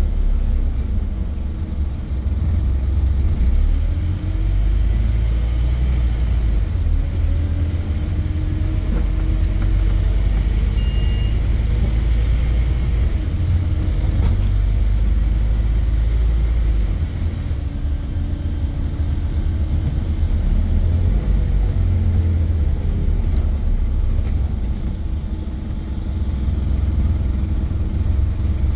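Scania N230 bus's five-cylinder diesel engine running with a deep, steady rumble. Its pitch climbs and falls several times as the bus pulls through the gears and eases off.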